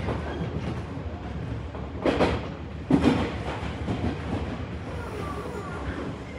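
Tobu Tojo Line electric commuter train running, heard from inside the car: a steady low rumble of wheels on rail, with two louder clacks about a second apart, a couple of seconds in, as the wheels cross rail joints.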